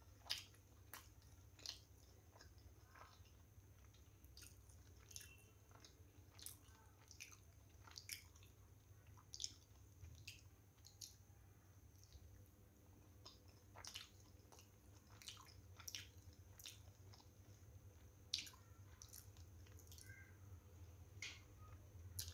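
Close-miked wet chewing and lip smacks of soft steamed momos, with irregular small clicks and smacks over a faint steady low hum.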